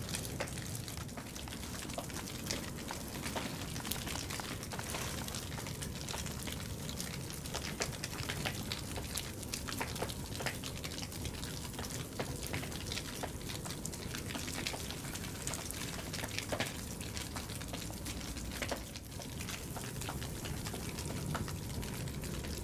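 Faint steady outdoor background hiss scattered with small irregular crackles and clicks.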